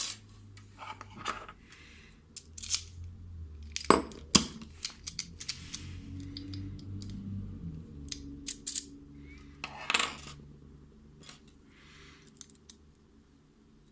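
Metal lock-picking tools clicking and scraping inside a Mul-T-Lock MT5+ lock cylinder, in short irregular bursts, with louder knocks about four and ten seconds in.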